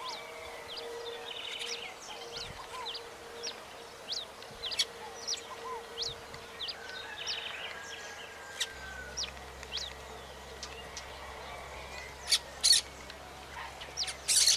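Wild birds chirping outdoors, many short high calls repeating throughout over a faint steady hum. A few sharp knocks sound near the end.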